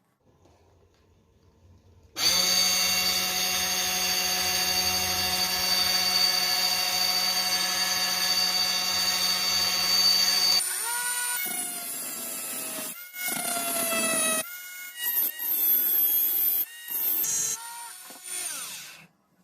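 Maktec MT081 cordless drill's brushed motor running steadily at speed for about eight seconds, then started and stopped several times, its pitch falling each time it spins down.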